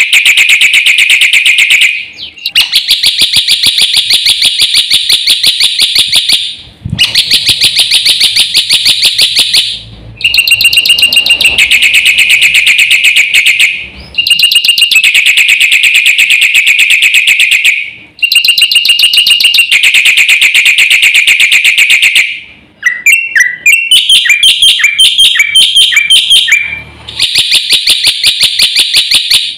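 Jalak putih (black-winged myna) singing loudly: runs of rapidly repeated harsh notes lasting a few seconds each, broken by short pauses, with a stretch of separate notes at changing pitches a little after the middle.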